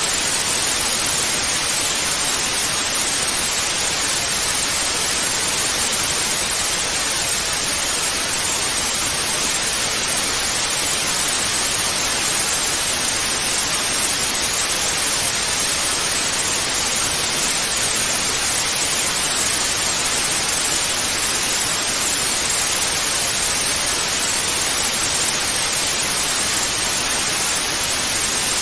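Analogue TV static: a steady, unbroken hiss of white noise, brightest in the high frequencies.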